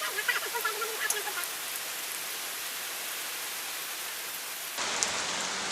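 Heavy rain falling steadily: an even hiss of rain noise. A faint voice is heard in the first second or so, and the sound changes abruptly just before the end.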